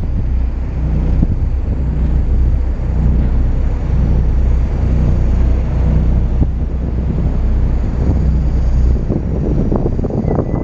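Steady low rumble of a moving vehicle heard from on board, with wind buffeting the microphone; the deepest rumble eases about nine seconds in.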